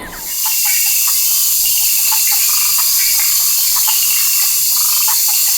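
Loud, steady high-pitched hiss of wild ambience that sets in suddenly at the start, with short chirps scattered over it.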